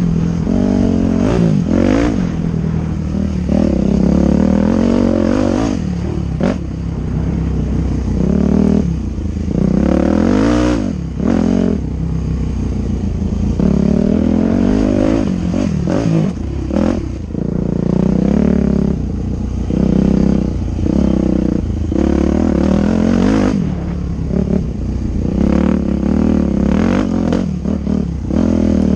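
Dirt bike engine revving up and down again and again as it is ridden, the pitch rising and falling every few seconds, with occasional sharp clatters.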